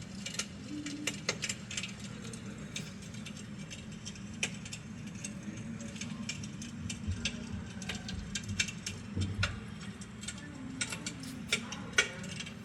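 RICHFLAME Edward electric fireplace insert's built-in fire crackling sound effect: irregular sharp crackles and pops over a steady low hum.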